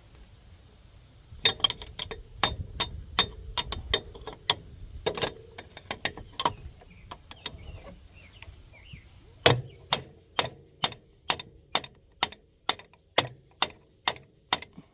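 Hammer blows on metal, knocking parts loose on an ATV's front end during CV axle removal: an irregular run of strikes, a pause, then a steady run of about a dozen blows at just over two a second, each with a short metallic ring.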